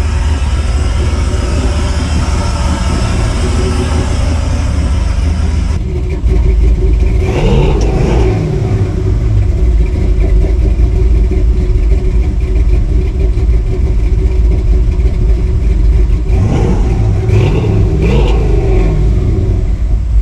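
6.0-litre GM V8 idling on a cold start with the fast idle of about 1200 rpm, settling toward a normal idle as the engine warms. It gets louder about six seconds in.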